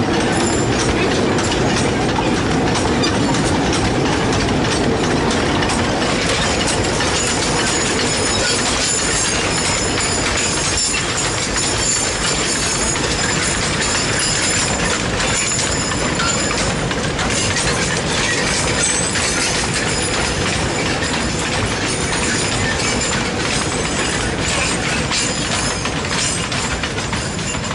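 Long train of loaded sugarcane wagons on Taiwan Sugar Railways' narrow-gauge line rolling past, with a steady rumble and clatter of wheels on the rails. It eases slightly near the end as the last wagons go by.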